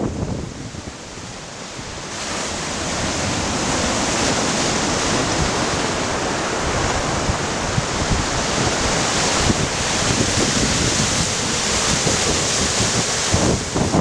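Stormy sea surf washing in, with wind on the microphone: a steady wash of noise that grows louder about two seconds in and stays strong.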